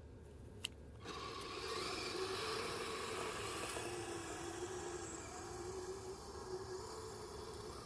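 Kyosho Blizzard RC snow vehicle running, its small electric motor whirring with a wavering pitch over a steady scraping hiss of the tracks. A single click about half a second in, just before the sound picks up.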